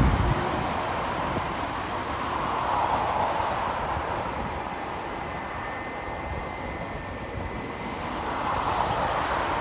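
Jet airliner engines running, a steady rushing noise that swells and eases, with a faint whine in the middle. A low thump of wind on the microphone comes right at the start.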